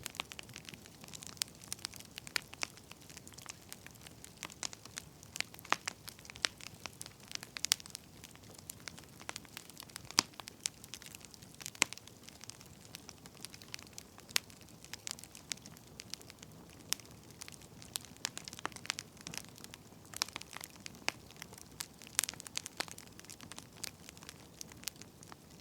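Firewood burning: irregular sharp pops and snaps over a soft steady hiss.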